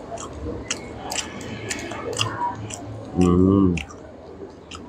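A man chewing a mouthful of grilled scallop, with a string of short wet mouth clicks and smacks, and a brief closed-mouth 'mmm' hum about three seconds in.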